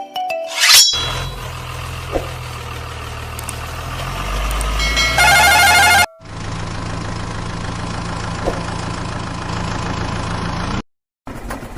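Vehicle engine running steadily at idle, with a loud horn blast about five seconds in. The engine sound breaks off briefly after the horn and again near the end.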